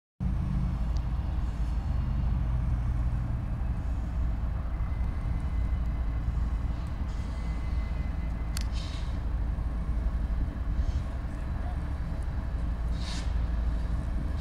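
Approaching Union Pacific diesel freight locomotives, a steady low rumble, with two short hisses, once past the middle and again near the end.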